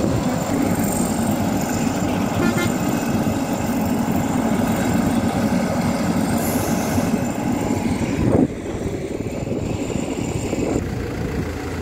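Heavy construction machinery running steadily, with its engine noise dropping a little about eight and a half seconds in.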